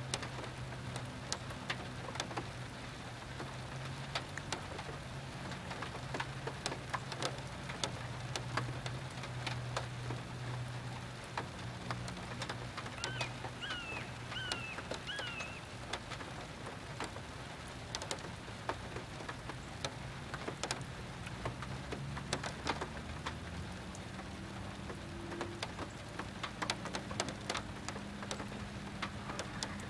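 Steady rain falling on a pond, with many individual drops ticking close by and a low steady hum underneath. A few short chirps come about halfway through and again near the end.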